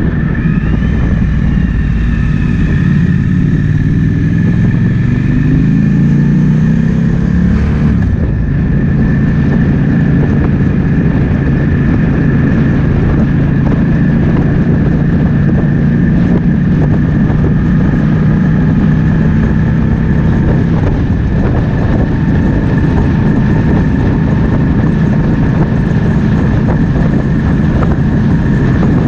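Triumph Speed Twin 1200's parallel-twin engine under way, rising in pitch as it accelerates, dropping abruptly about eight seconds in as it changes gear, then holding a steady cruise, with wind noise on the microphone throughout.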